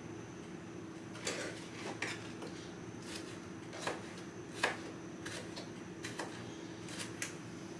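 Kitchen knife cutting vegetables on a cutting board: irregular light knocks, about one a second, the sharpest about halfway through, over a steady low hum.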